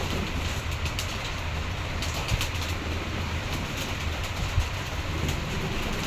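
Pigeons in a flock or loft, over a steady low rumble with scattered short clicks.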